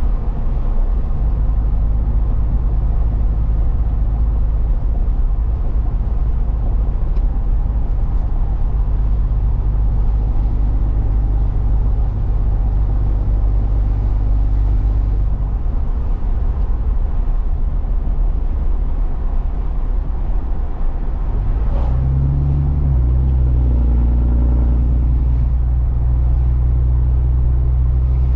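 Truck engine and road noise heard from inside the cab, a steady low rumble. About three-quarters of the way through there is a click, the engine note rises briefly, and then it settles into a steadier, stronger hum.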